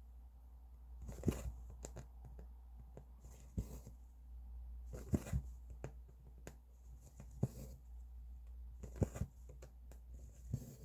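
Cross-stitching by hand: a needle pokes through the fabric and the floss is drawn through with a short rasp, every one to two seconds. A steady low hum runs underneath.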